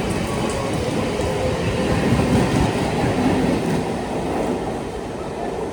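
Train running along the track, a steady loud rumble of wheels on rail that fades toward the end.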